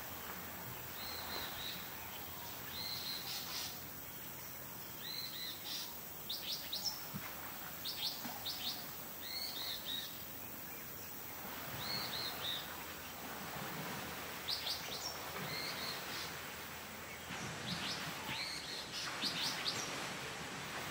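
Wild birds chirping and calling over a steady outdoor background hiss. The calls are short and high, many dipping in pitch, with some quick clustered trills, coming every second or so.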